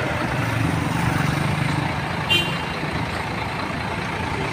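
Heavy bus diesel engine running, its low hum swelling briefly about a second in, with a short high-pitched tone just past the middle.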